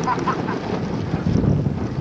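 Wind buffeting the camcorder microphone: a loud, uneven low rumble that rises and falls with the gusts.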